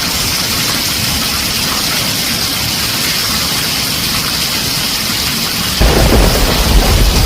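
Heavy rain drumming on a tin roof in a steady hiss. About six seconds in, a loud, deep rumble of thunder sets in and keeps rolling under the rain.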